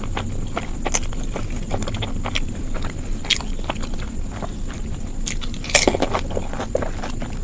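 A person chewing and biting food with mouth open, a run of irregular wet clicks and crunches, with a louder burst about six seconds in.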